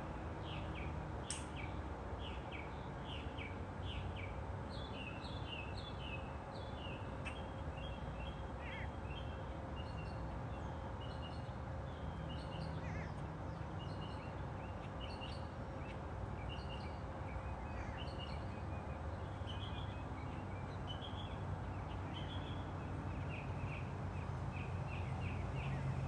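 Several wild birds chirping and singing: many short, quick chirps and trills overlapping. A steady low rumble runs underneath and grows louder near the end.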